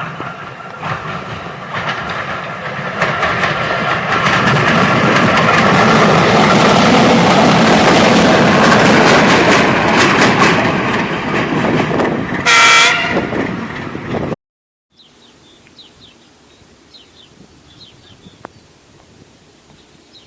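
ChME3 diesel shunting locomotive passing close, its engine running and wheels clattering over rail joints as the noise builds to a peak. A short horn blast sounds about thirteen seconds in. After an abrupt cut, only faint low background noise remains.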